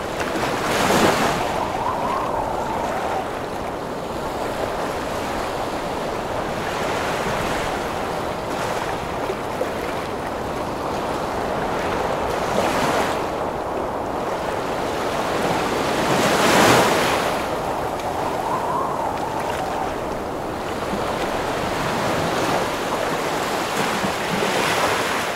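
Heavy ocean surf rushing steadily under strong wind. Two big waves break, one about a second in and one about two-thirds of the way through, each followed by a brief rising-and-falling howl of wind.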